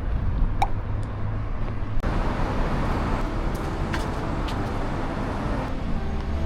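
Road traffic on a city street, a steady low rumble of passing cars, with the background changing abruptly about two seconds in.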